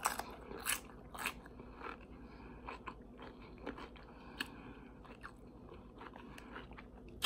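Close-up chewing of a mouthful of nachos: crunching of tortilla chips, with a few louder crunches in the first second and a half, then softer chewing clicks.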